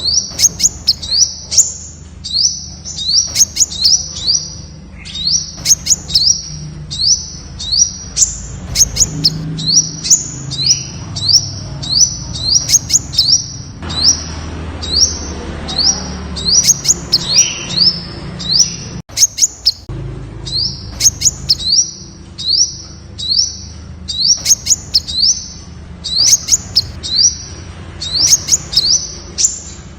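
Temminck's sunbird calling: a steady run of short, high, slightly rising chirps, each with a sharp click, about two to three a second.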